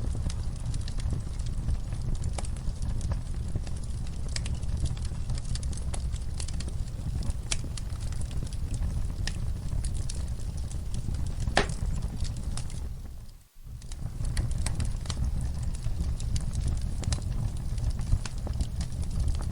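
Wood fire crackling in a fireplace: a steady low rumble with scattered sharp pops and snaps. About two-thirds through it fades almost to silence for a moment, then comes back.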